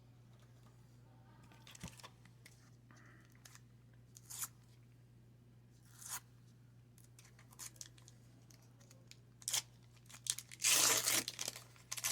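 Wax-paper card pack being torn open and crinkled, with scattered short rustles of cards handled before the loudest tearing near the end.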